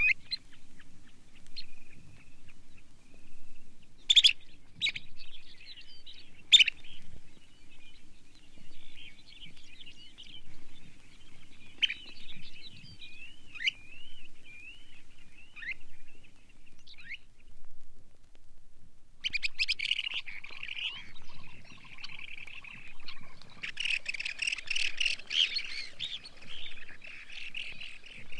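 Long-billed dowitcher calls played from a vinyl record. Scattered sharp high calls come in the first half, then a wavering trill around the middle, and a dense run of many overlapping calls through the last third.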